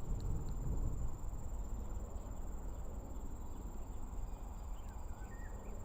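Insects, likely crickets, keep up a steady, unbroken high-pitched drone over a low background rumble. A faint short chirp comes near the end.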